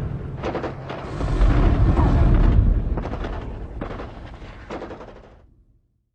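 Heavy booms and sharp cracks like explosions and gunfire, with a deep rumble under them, fading away to silence near the end.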